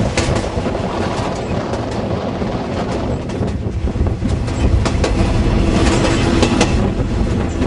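Passenger train running along the track, heard from inside a carriage: a steady rumble with sharp wheel clacks over the rail joints at uneven intervals.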